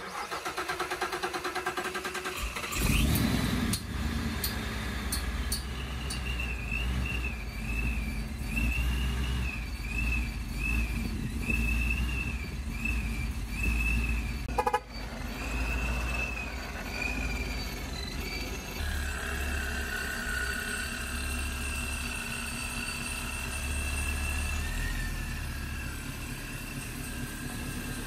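2017 Camaro SS's 6.2-litre LT1 V8, freshly fitted with a ProCharger D1X supercharger, cranking and catching about three seconds in on its first start-up after the install. It then runs on steadily, with a thin wavering high tone above the engine note and a brief drop out about halfway through.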